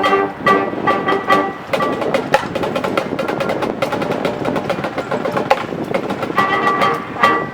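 High school marching band playing: held brass chords break off about half a second in, and the percussion section carries a busy stretch of rapid clicks and drum hits. The held chords come back near the end.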